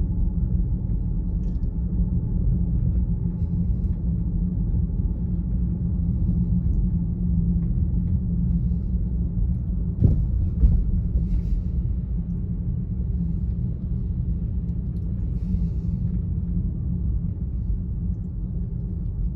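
Steady low rumble of road and tyre noise inside a Tesla Model Y's cabin while it drives, with no engine note since the car is electric. One short louder knock about ten seconds in.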